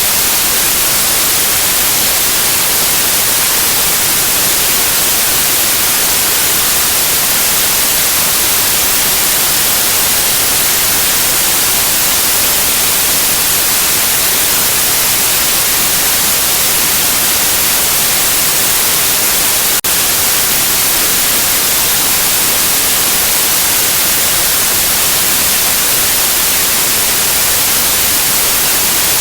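Steady, loud white noise: an even hiss with the most energy in the high treble. There is a momentary dip in level about twenty seconds in.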